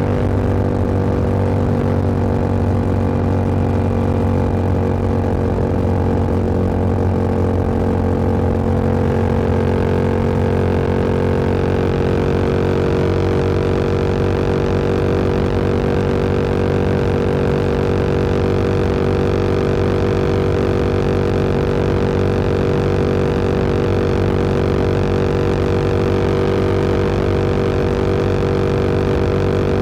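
Motorcycle engine pulling steadily on the road, its pitch rising a little about a third of the way in as it picks up speed and then holding level. Wind rush on the microphone grows louder as the speed rises.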